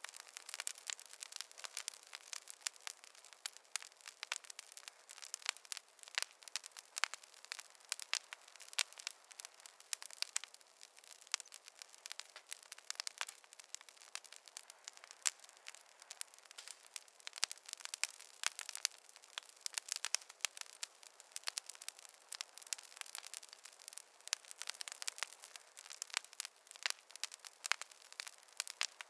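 Wood fire crackling in a fireplace: a dense, irregular run of sharp pops and snaps from burning logs, with no low rumble beneath them.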